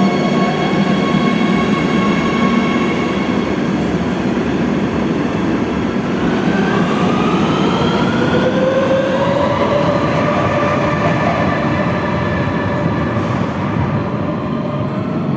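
Metro de Madrid Serie 3000 electric train running at the platform with a dense rumble of wheels on rail. From about six seconds in, the traction motors' whine rises steadily in pitch as the train picks up speed.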